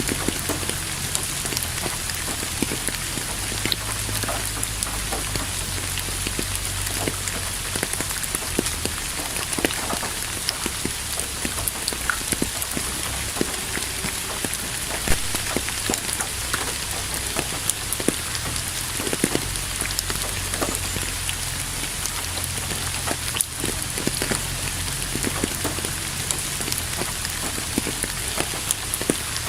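Steady rain falling on a surface, with many individual drops tapping distinctly over a continuous hiss and a low rumble underneath.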